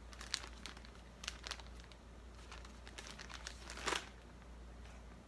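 Paper rustling and crinkling as a paper bag puppet is handled, in short scattered bursts, with a louder crackle about four seconds in.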